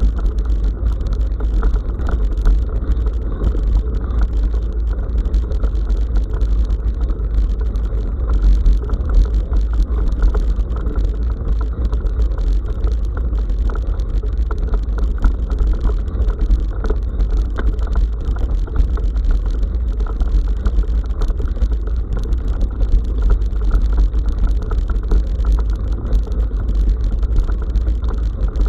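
Bicycle riding along a forest track, heard through an SJCAM SJ5000X action camera: a steady, loud, muffled rumble of wind and tyre noise, with many small clicks and rattles throughout.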